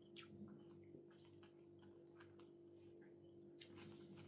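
Near silence: faint, irregular mouth clicks and lip smacks of people chewing sushi rolls, over a steady low hum.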